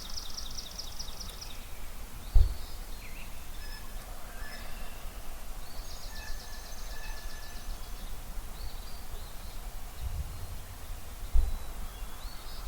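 Dawn chorus of several songbirds: rapid high trills, one near the start and another about six seconds in, with scattered short chirps and whistles between. Two sudden loud low thumps stand out, one about two seconds in and one near the end.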